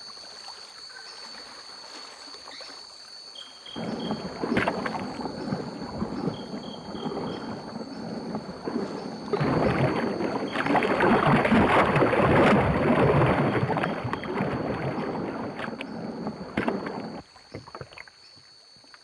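Caiman splashing and churning the river water, starting a few seconds in, heaviest about halfway through and dying away near the end. A steady high insect drone runs underneath.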